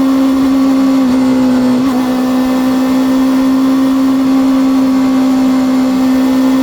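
Honda CB400 Super Four VTEC Revo's inline-four engine and exhaust running at a steady engine speed while riding, its pitch held level, with two slight wobbles in the first two seconds.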